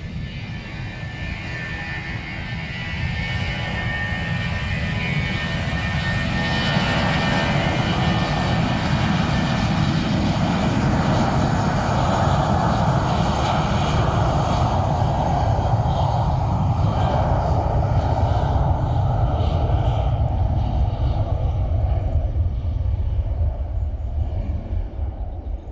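Jet airliner's engines passing the spotter: a high turbine whine at first, then a wide roar that builds over several seconds, holds loud for about ten seconds, and fades near the end.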